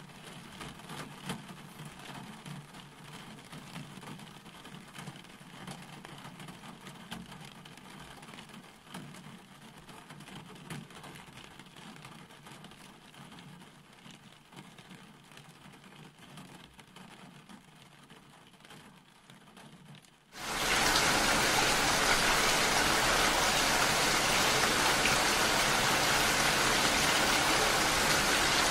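Faint rain falling, then about two-thirds of the way through a sudden switch to heavy rain pouring down and splashing on the ground, much louder, as a steady dense hiss.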